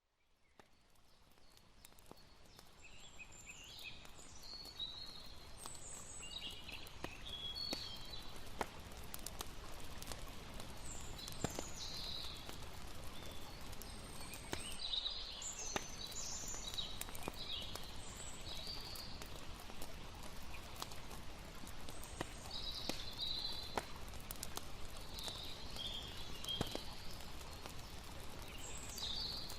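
Layered night-ambience soundscape: a campfire crackling with scattered sharp pops over a steady wash of flowing river water, with short high chirping calls of night creatures. It fades in over the first few seconds.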